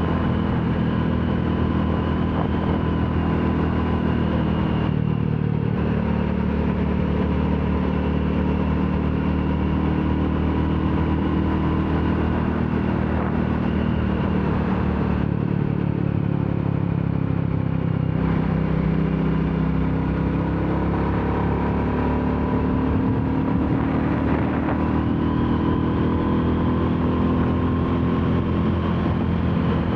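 Royal Enfield Classic 350's single-cylinder engine running under way on the road, its note shifting in pitch a few times as the speed changes.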